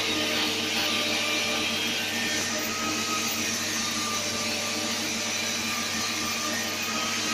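CNC machine running steadily, a constant whirring machine noise with several steady hums underneath.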